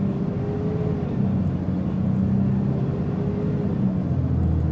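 Mitsubishi Fuso Aerostar LKG-MP37FK city bus running, its diesel engine droning steadily with a whine that comes and goes twice; the drone deepens near the end. The bus is giving off what its recordist calls a considerable abnormal noise.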